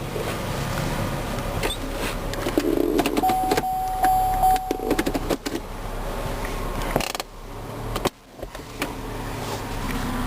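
A 2008 Chevrolet Cobalt's four-cylinder engine idles steadily, heard from inside the cabin. A few seconds in there are clicks and rustling, along with a steady tone that lasts about a second and a half.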